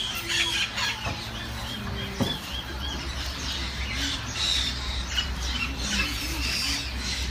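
A mix of many birds calling and chirping together, with a quick run of short, repeated arched notes in the third second, over a steady low rumble.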